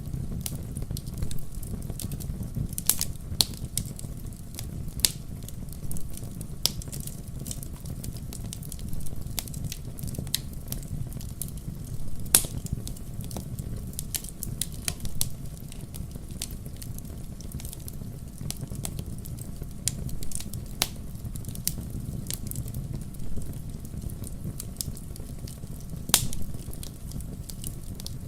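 Wood fire burning in a fireplace: a steady low rumble of flames with irregular sharp crackles and pops from the burning logs, the loudest pops about midway and near the end.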